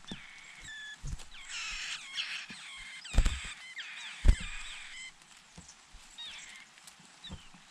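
Birds chirping in a quick run of short downward-sliding calls, with a few dull knocks, the loudest about three and four seconds in.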